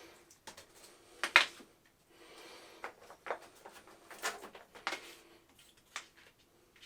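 Irregular knocks, clicks and short scraping sounds of hand renovation work in a small room, one sharp knock about a second and a half in being the loudest.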